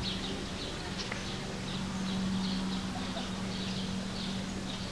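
Small birds chirping in short, high notes that repeat every few tenths of a second, over a steady low hum.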